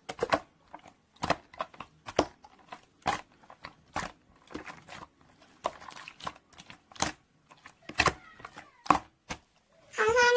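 Slime being squeezed and pressed by hand, giving irregular sharp pops and crackles.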